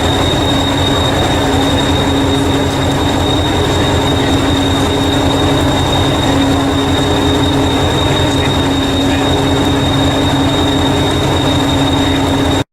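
Railway train running, a steady rumble with a constant high-pitched whine and a low hum, cutting off abruptly near the end.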